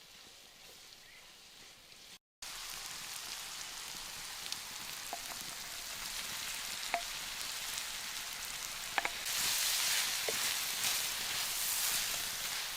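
Food sizzling in a frying pan over an open fire: a steady hiss with scattered small pops. It starts abruptly just over two seconds in and grows louder about nine seconds in.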